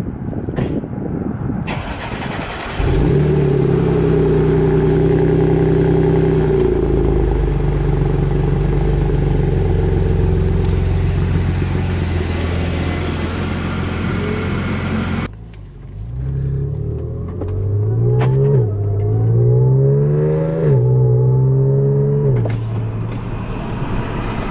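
B8 Audi S4's supercharged 3.0-litre V6 starting: a short burst of cranking, then the engine catches about three seconds in to a high idle that settles lower a few seconds later and holds steady. After a cut, the car accelerates, its engine pitch rising and dropping back three times as it shifts up, then running steady.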